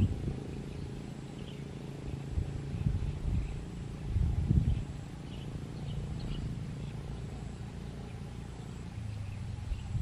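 A low, uneven rumble with irregular bumps, loudest about four and a half seconds in, under faint short bird chirps that come every so often.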